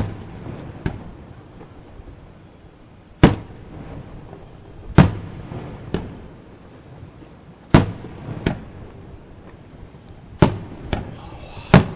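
Aerial fireworks shells bursting: about ten sharp booms at uneven intervals of one to three seconds, each trailing off briefly.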